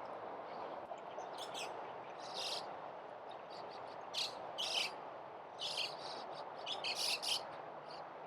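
Small birds giving short, high chirping calls in several brief clusters over a steady background hum.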